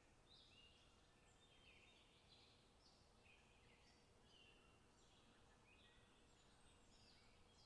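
Very faint small birds chirping: many short, high calls, several a second, some sliding down in pitch, over a low steady hiss.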